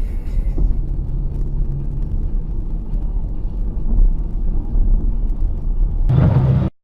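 Low, steady rumble of a car driving, as picked up by a dash cam. About six seconds in, a louder, noisier burst comes in, then the sound cuts off abruptly.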